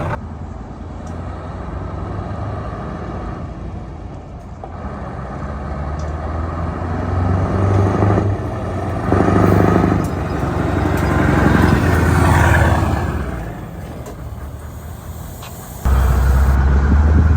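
Scania cabover truck's diesel engine pulling away under load, the revs and loudness building and falling back several times as it works up through the gears. It jumps suddenly louder near the end.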